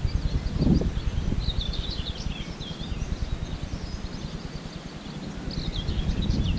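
Small birds chirping in short, quick phrases, twice, over a low rumble of wind buffeting the microphone.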